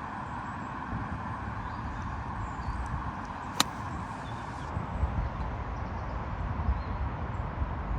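A golf club striking the ball in a chip shot: a single sharp click about three and a half seconds in, over a steady rumble of wind buffeting the microphone.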